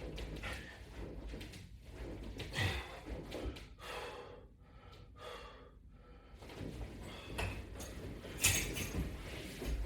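A person breathing hard during sit-ups and crunches, with a series of short, noisy breaths and exhalations about a second or two apart.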